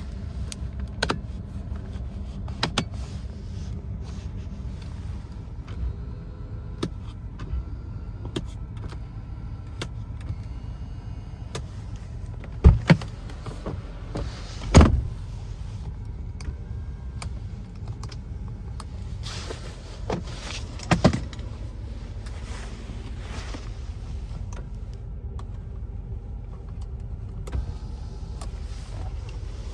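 A 1994 Mercedes-Benz S420's V8 idling steadily while its controls are worked. Switches click, small electric motors whine on and off, and two heavy thumps land about halfway through.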